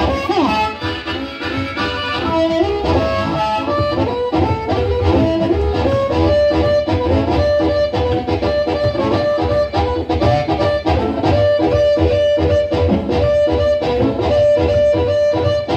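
Live band playing an instrumental passage: a lead melody of held notes over a steady beat.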